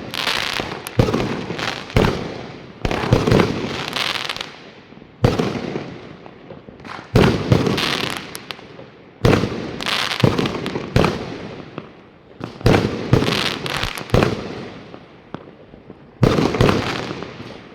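Fireworks exploding in quick, irregular succession: many sharp bangs, each trailing off before the next, loud and continuing throughout.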